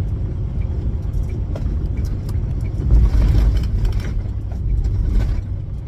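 Steady low rumble of a 2025 International LT semi truck heard from inside its cab, swelling briefly about three seconds in, with a few light clicks.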